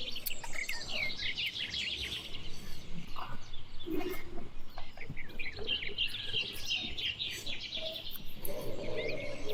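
Many small birds chirping, busy and overlapping, with a few lower-pitched calls underneath about four seconds in and again near the end.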